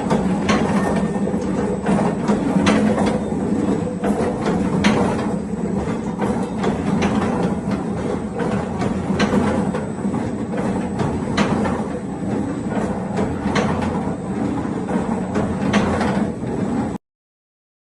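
Glass mosaic machine running steadily, with a constant hum and irregular sharp clicks or knocks. The sound cuts off suddenly about a second before the end.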